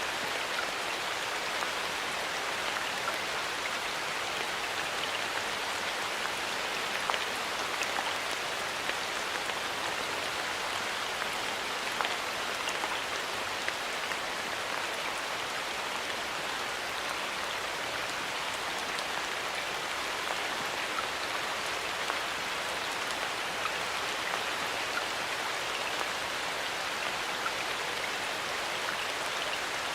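Steady light rain falling in a forest, a continuous patter with scattered individual drops ticking on leaves.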